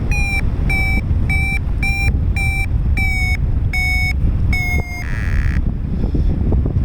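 Paragliding variometer beeping in a steady series of short high-pitched beeps, roughly one and a half to two a second, the climb tone that signals rising air. The beeps stop about five seconds in, followed by a short buzz, with wind rumbling on the microphone throughout.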